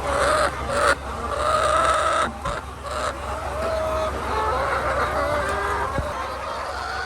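Egg-laying hens clucking and calling, several wavering voices one over another, over a low steady hum.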